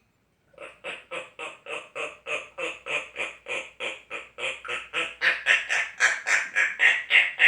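African grey parrot giving a fast run of short, noisy calls, about three a second, that grow louder over the last couple of seconds.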